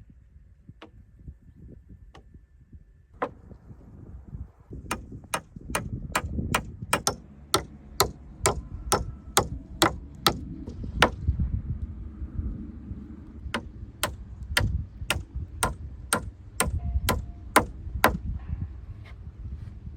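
Hammer striking timber in a steady run of sharp blows, about two a second, with a brief pause partway through before the blows resume.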